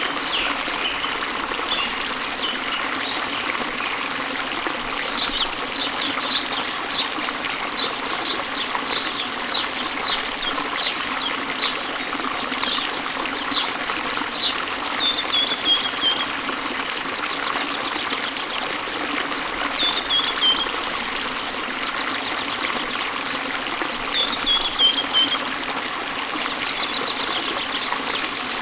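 Waterfall, a steady rush of falling water, with small songbirds calling over it. First comes a run of short high chirps, roughly one or two a second. Brief descending trills follow three times, the last about two thirds of the way in.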